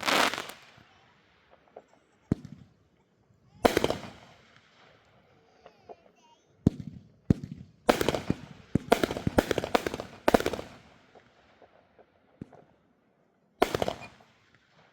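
Consumer fireworks going off: a string of loud bangs and crackling bursts, with a rapid run of shots in the middle and single reports before and after.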